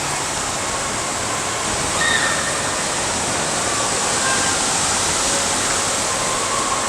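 Steady rush of flowing water on a water-park tube ride.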